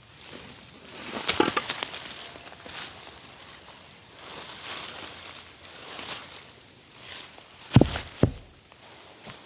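Irregular rustling and crunching handling noises, then two heavy thuds half a second apart near the end.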